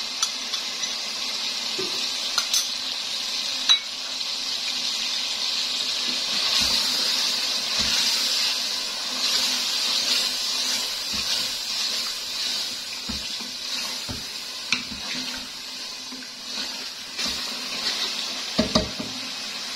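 Chicken and spice masala sizzling in a metal pot as whisked yogurt is spooned in and stirred through, with steady frying hiss and a spoon clinking and scraping against the pot now and then.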